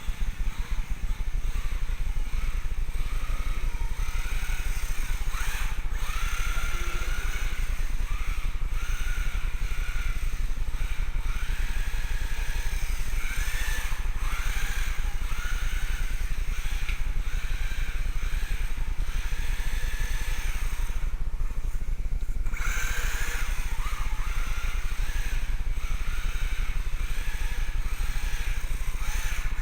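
Electric motor and drivetrain of a 1/16 scale four-wheel-drive RC rally car whining in short bursts that rise and fall in pitch with the throttle, over a steady low rumble. The whine drops out briefly twice, about six seconds in and again around twenty-one seconds.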